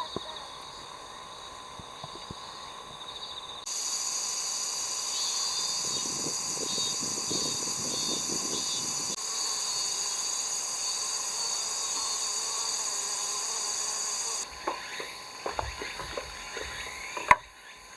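Steady high-pitched insect chorus that jumps louder at about four seconds and drops back about three seconds from the end, where a few knocks and clicks sound.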